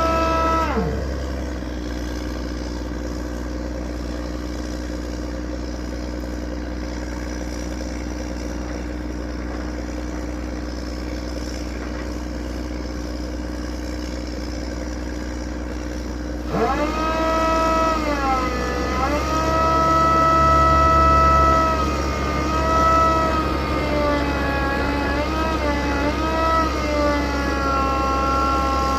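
Drilling machine running with a steady low hum. About halfway through, a loud high whine sets in that dips in pitch and recovers a few times.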